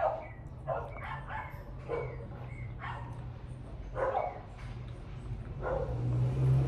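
A dog barking repeatedly, short separate barks roughly every second, some in quick pairs, over a steady low hum that swells near the end.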